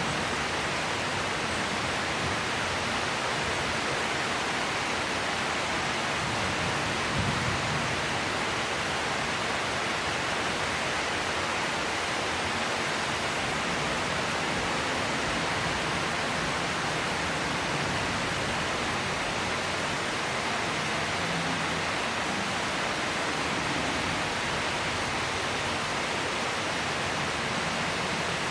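Steady, even rain pouring down in a rainy-season storm.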